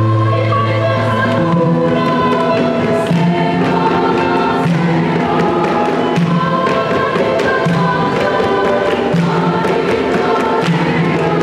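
Children's choir singing a Christmas carol in sustained, steady phrases, with notes changing every second or so.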